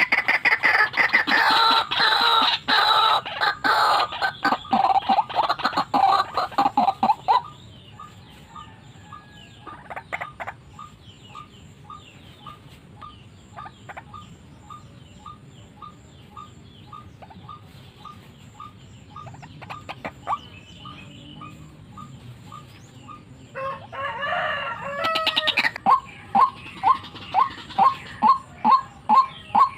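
White-breasted waterhen calling: a loud, harsh run of croaking calls, then a long series of short, evenly repeated notes at about two a second, with a second loud burst near the end followed by louder repeated notes.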